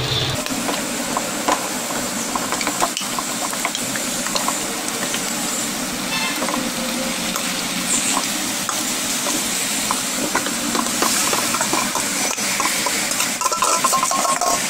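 Marinated chicken sizzling in hot oil with fried onion and tomato masala, a steady frying hiss with scattered crackles, while a spoon stirs and scrapes through it in the pan.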